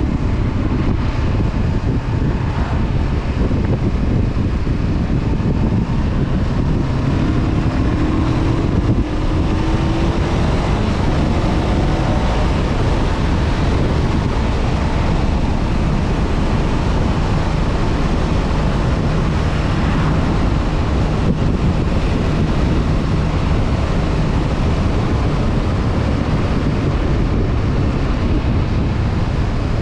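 Honda CB500F parallel-twin engine running on the move, mixed with heavy wind buffeting on the microphone. A pitched tone rises for a few seconds about a third of the way through.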